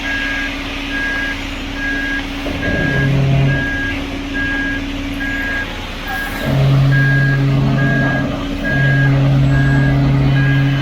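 Vehicle reversing alarm beeping steadily at an even pace over a running diesel engine. A louder low drone swells in three times, briefly about three seconds in and then for longer stretches in the second half.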